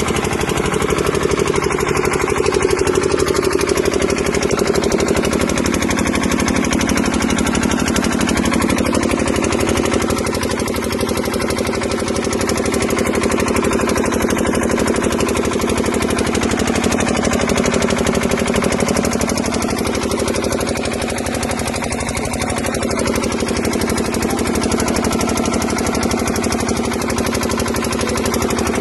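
Engine running steadily at close range with a fast, even chugging beat, holding much the same speed throughout.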